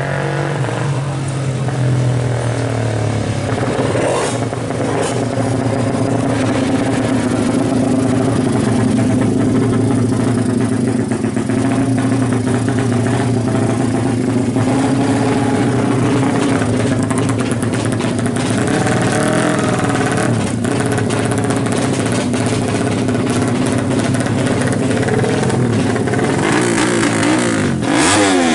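Suzuki FU drag bike engine, built out to 200 cc with twin exhausts, running steadily at a held speed, then revved in quick rises and falls near the end.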